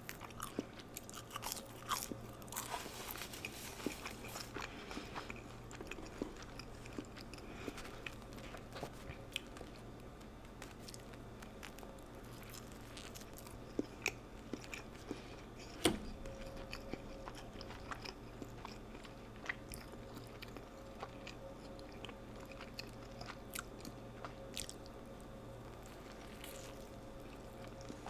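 Close-miked eating of fast food: biting and chewing with crunching and small wet mouth clicks, irregular and continuous. There is a denser, noisier stretch of crunching about two to four seconds in and one sharper click midway.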